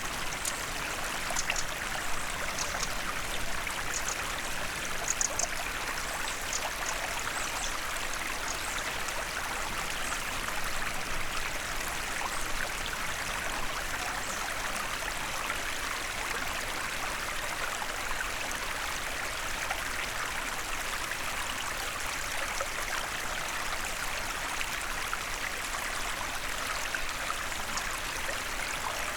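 Small forest stream running over stones: a steady, even rush and babble of water.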